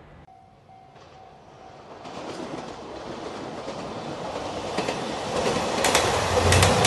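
A railway level-crossing bell ringing faintly, then a passenger train approaching and passing close, its rumble growing steadily louder, with wheels clacking over rail joints near the end.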